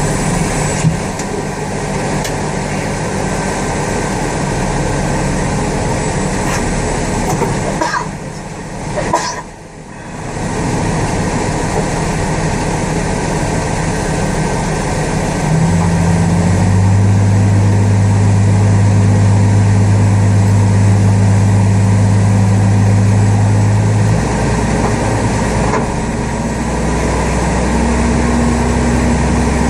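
Aircraft pushback tug's engine running steadily, with a brief dip in loudness about a third of the way in. About halfway through it steps up to a louder, higher note and works hard for several seconds, eases back, then rises again near the end.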